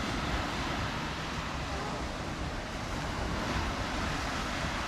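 Steady rush of waves breaking on a beach, with wind on the microphone.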